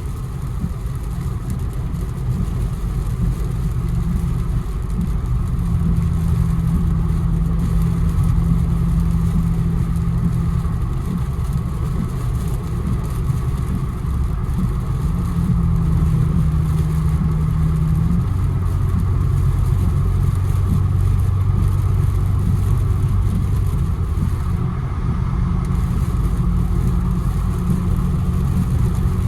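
Infiniti Q60 driving on a wet road: a steady engine drone under a hiss of tyres and road noise. The engine note holds, then shifts pitch a few times as the speed changes.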